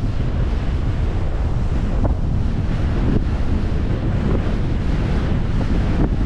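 Steady wind noise buffeting the microphone on a moving cruise boat, over a low rumble of the boat and water.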